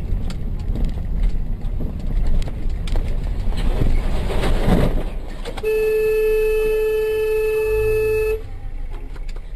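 Vehicle road noise, then a car horn sounded in one steady, unbroken blast for about three seconds, starting a little past halfway and cutting off suddenly.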